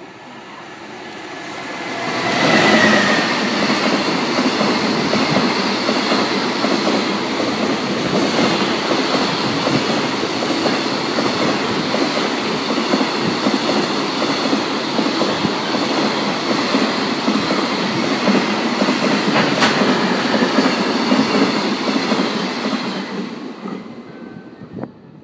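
JR Freight EF210 electric locomotive hauling a long container freight train through a station at speed. The noise builds as the locomotive approaches and is loudest as it passes, with a brief high tone. Then the wagons roll by with a steady rumble and wheel clatter for about twenty seconds, fading away near the end.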